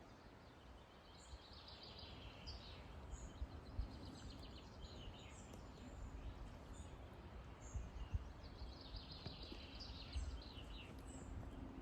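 Faint songbird song: quick, chirping, trilling phrases in two spells, over a low steady rumble.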